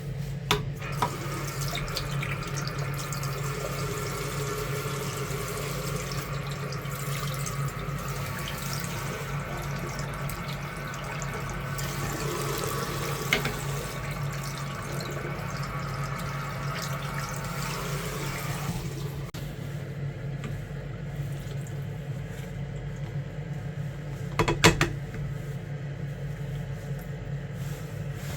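Water running and splashing, easing to a quieter trickle about two-thirds of the way through, over a steady low hum, with a couple of short knocks.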